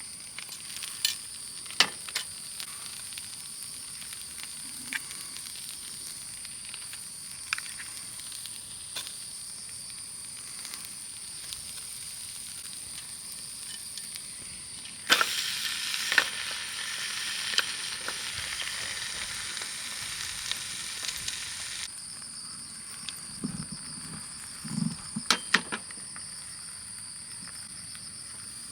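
Food sizzling on a hot camp griddle: a hiss that starts suddenly about halfway through and cuts off after about seven seconds. Steady high insect chirring runs underneath, with scattered sharp clicks.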